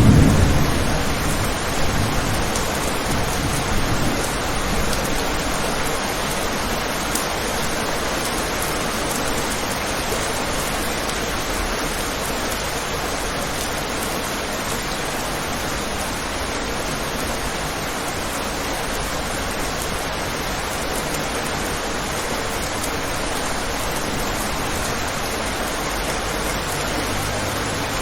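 Steady heavy rain, an even hiss, with the tail of a low thunder rumble dying away in the first couple of seconds.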